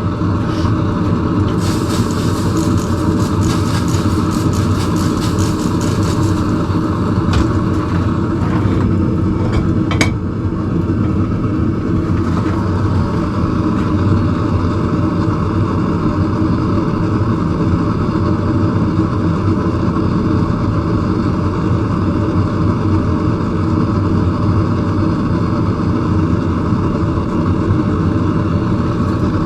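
Forge running steadily with a constant noisy rumble and hum while the metal heats, with a few faint clicks between about two and six seconds in and a sharper click about ten seconds in.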